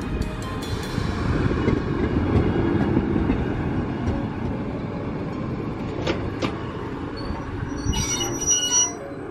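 Matterhorn Gotthard Bahn passenger train rolling past at close range with a steady low rumble of wheels on rail. Two sharp clicks come about six seconds in, and a brief high squeal of the wheels near the end.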